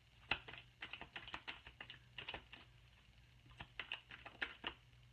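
Deck of tarot cards being shuffled by hand: quick, irregular card clicks and slaps in two bursts, the second beginning a little past the middle.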